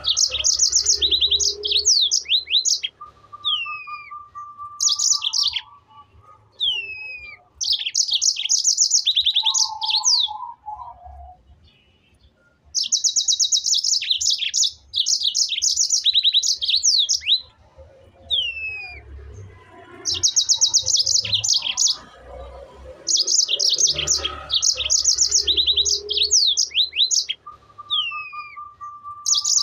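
Birdsong: bursts of fast, high trills a second or two long, repeated every few seconds and mixed with short downward-sliding whistles, plus a lower held whistle twice.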